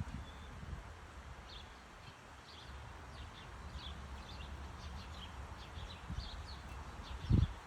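Small backyard birds chirping, with many short high calls scattered throughout over a low rumble. A loud low thump comes near the end.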